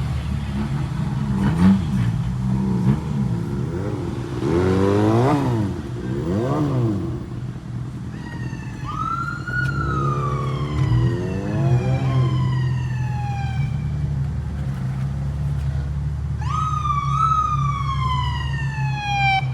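Police siren wailing twice, each time a quick rise then a slow falling sweep, over a steady car engine idle. Before and between the siren sweeps, car engines rev up and down a few times.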